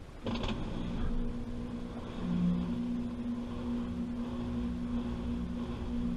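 Washing machine motor starting with a sudden click about a third of a second in, then running with a steady hum as the drum turns.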